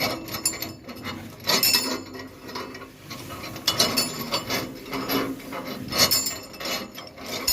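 Grass chopper machine's blades chopping grass: an irregular mechanical clatter that swells in several louder bursts.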